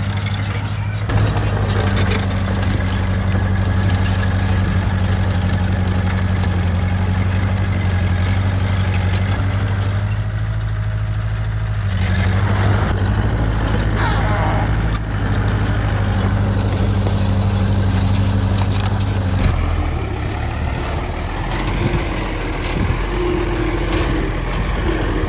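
Heavy diesel bulldozer engine running steadily under load, with metallic clanking and rattling; the engine note changes and drops about twenty seconds in.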